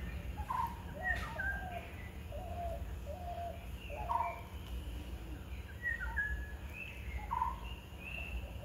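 Birds singing: short whistled notes and phrases recur every second or so, over a steady low rumble.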